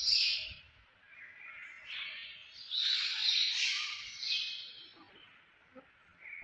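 Small birds chirping in bursts, with quiet gaps about a second in and shortly before the end.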